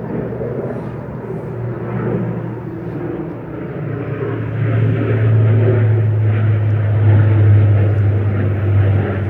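A steady low engine drone with a rushing noise over it, growing louder from about four seconds in.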